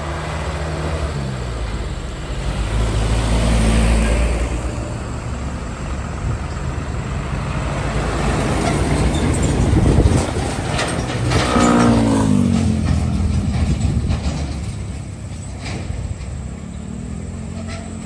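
Heavy diesel trucks passing one after another, their engines loud as each goes by. One engine drops in pitch about twelve seconds in.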